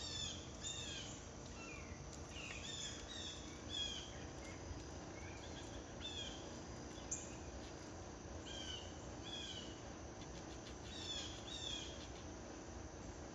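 Small birds chirping: many short, high, downward-sliding chirps, some in quick runs, scattered throughout over a steady low background hum.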